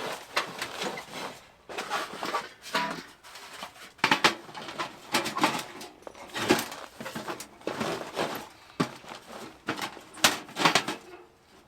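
A string of irregular clinks, knocks and rustles from a lightweight titanium tent stove being put together by hand.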